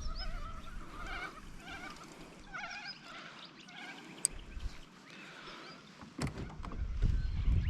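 A bird giving a run of short, repeated calls, a couple a second, which fade out about three seconds in. Low rumbling with a few knocks comes in near the end.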